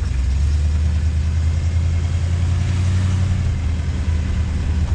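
1968 Buick Skylark convertible driving along at a steady pace, heard from inside the car: a steady low engine drone with road and tyre noise over it.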